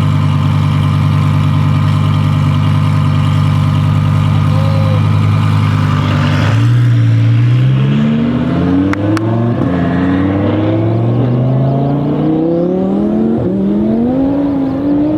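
Twin-turbocharged Audi R8 V10 Plus's V10 engine held at steady revs, then going to full throttle about six seconds in. It accelerates hard, the note climbing in pitch and dropping back at each of several gear changes.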